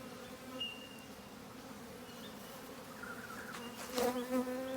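Honeybees buzzing around an opened hive: a steady hum that swells louder near the end, with a few clicks near the end.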